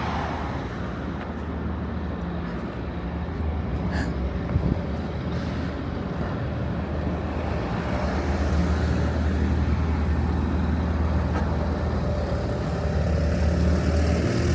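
A motor vehicle's engine running close by over general street noise. It is a steady low hum that gets louder about eight seconds in.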